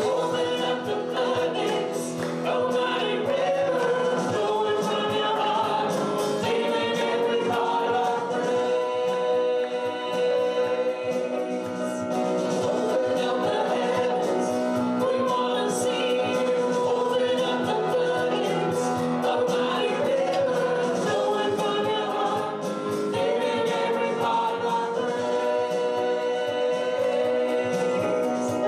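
A choir singing a gospel worship song, steady and continuous.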